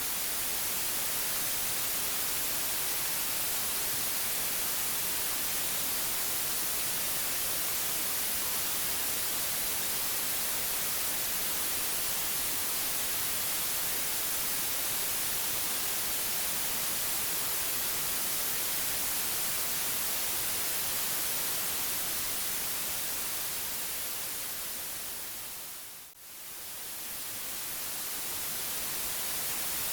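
Steady white noise, an even hiss strongest in the treble. Near the end it briefly fades down almost to nothing and swells back up.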